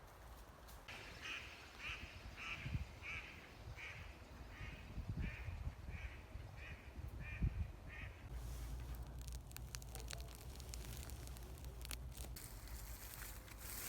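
A bird calling in a steady series of about a dozen short calls, stopping about eight seconds in, with a few low thumps.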